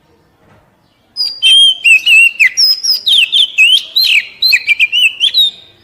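Oriental magpie-robin (kacer) singing a fast run of varied whistles and chirps, starting about a second in. It is the basic song of a wild-caught bird.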